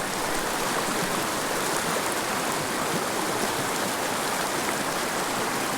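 Shallow mountain river flowing, a steady even wash of water.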